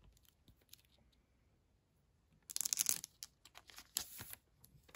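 Photo cards and their packaging rustling and crinkling in the hands: a brief loud burst of rustling about two and a half seconds in, then several shorter crinkles.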